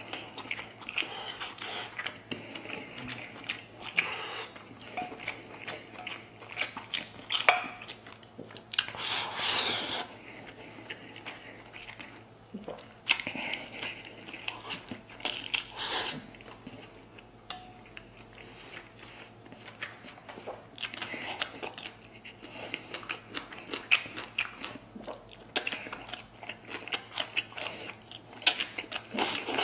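Close-miked chewing and biting of braised meat, with wet smacking and irregular short clicks, and several louder bursts of mouth noise now and then.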